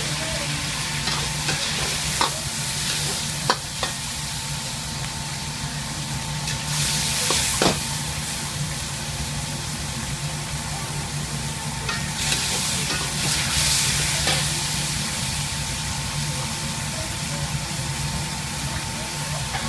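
Pork pieces, garlic and ginger sizzling in hot oil in a wok, stirred with a metal ladle that scrapes and knocks against the wok a few times. The sizzle swells briefly twice as the food is turned.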